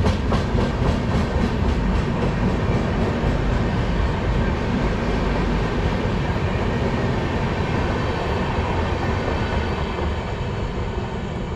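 Passenger express coaches passing at speed: steel wheels rumbling on the rails with a steady rush of air, rail-joint clacks in the first second blurring into the din, which grows slightly quieter toward the end.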